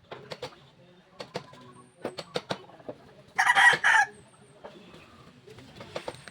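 A rooster crowing once, a little over three seconds in, for just under a second, over scattered light knocks and clicks.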